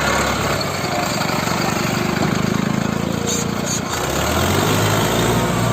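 Mahindra tractors' diesel engines running hard during a recovery pull out of mud, the engine note shifting a couple of times.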